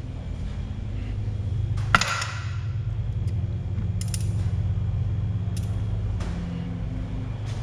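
Metal valvetrain parts from a Ford 5.0 Coyote V8 clinking as they are handled and pulled apart: one sharp, ringing metallic clink about two seconds in and a few lighter clicks after it, over a steady low hum.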